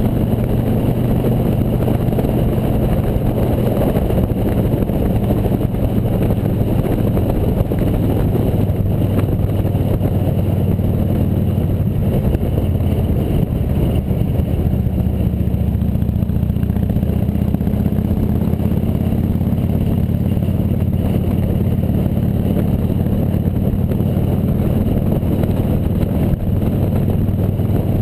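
Motorcycle engine running steadily while riding at speed, with a rushing wind noise over it; the engine pitch shifts slightly about halfway through.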